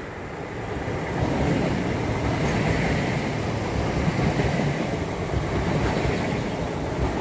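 A train passing through the station, a steady rumble and rush of wheels and air that builds about a second in and then holds.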